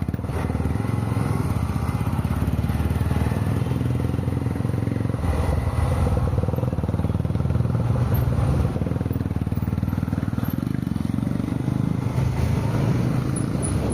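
Steady road noise from a moving vehicle in city traffic: a low engine and tyre rumble, swelling a little partway through.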